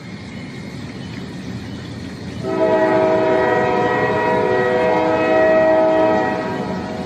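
A multi-tone air horn sounds one long chord for about four seconds, starting about two and a half seconds in, over the steady low rumble of a heavy vehicle.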